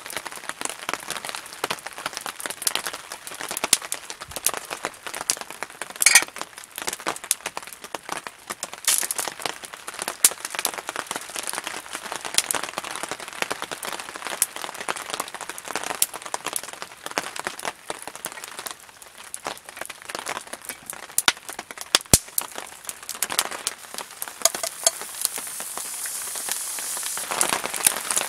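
Rain pattering steadily on a tarp roof, dense with small sharp drips, mixed with the crackle of a campfire. Near the end a louder, steadier hiss builds as meat begins frying in a pan over the fire.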